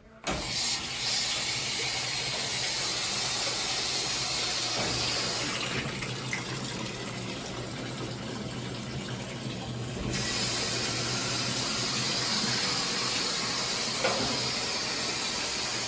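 Washing machine filling: water rushing steadily into the drum through the inlet valve, starting suddenly, with a low hum. The tone goes duller for a few seconds midway. This is the test fill after the swapped hot and cold inlet hoses were reconnected the right way round.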